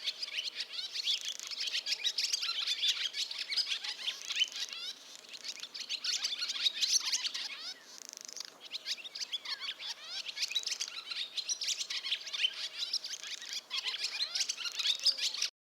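Barn swallows twittering: a dense, continuous run of rapid high chirps and short warbling notes, with a brief lull about eight seconds in.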